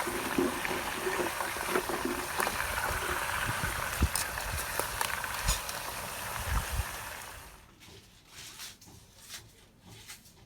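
Chicken deep-frying in hot oil over a campfire: a steady, dense sizzle with scattered pops and crackles, which drops away about seven seconds in, leaving only faint clicks.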